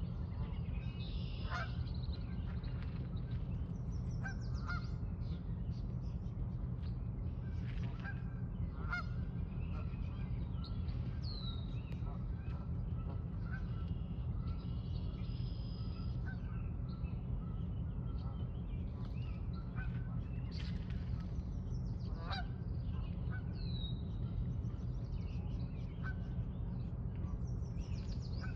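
Birds calling: scattered short chirps and a few quick downward-sweeping whistles, with some harsher honk-like calls, over a steady low rumble.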